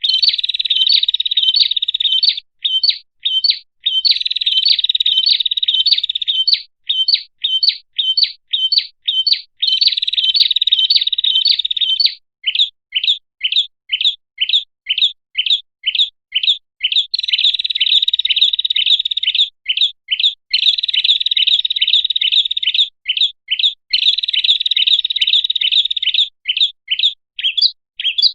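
Prinia (prenjak) song played as a bird-trapping lure call: sharp, high chirps repeated at about three a second, alternating with stretches of dense, continuous chattering trill a couple of seconds long.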